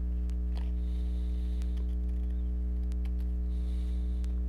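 Steady low electrical mains hum, with a few faint snips and a light rustle of scissors cutting paper.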